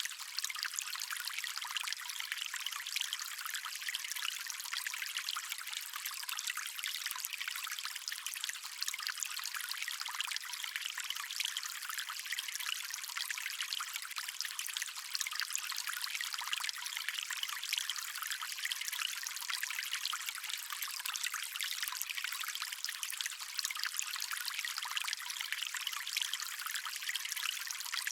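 Stream water running and trickling, a steady unbroken hiss with no low rumble.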